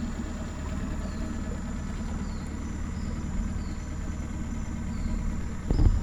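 Dinghy outboard motor idling steadily, with short high bird chirps about once a second above it. A louder low rumble comes in near the end.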